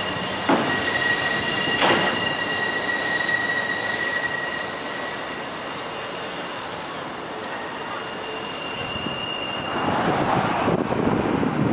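A train rolling past with steady wheel noise and high-pitched wheel squeal held on steady tones. There are two knocks from the wheels early on. The squeal dies away in stages and a louder rush of noise comes near the end.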